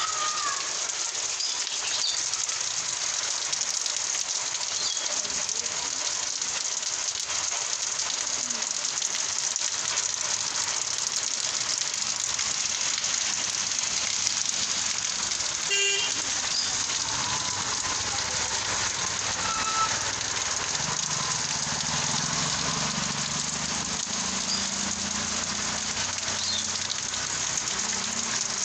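Steady rain falling, a dense even hiss. A faint low hum joins in during the second half.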